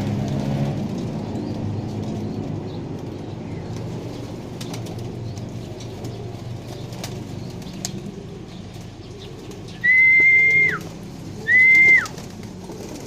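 Racing pigeons cooing, with scattered wing flaps and clicks. About ten seconds in come two loud, steady whistled notes, each held for under a second and dropping in pitch at the end.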